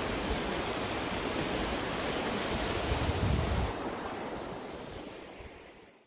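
Steady rush of a mountain river's flowing water, with gusts of wind buffeting the microphone, fading out over the last couple of seconds.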